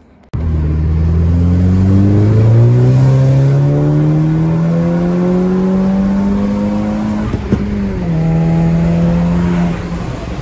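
Audi engine running through a decat downpipe with no catalytic converter, very loud, accelerating hard. The revs climb steadily for about seven seconds, drop at an upshift about eight seconds in, then hold steady at a lower pitch.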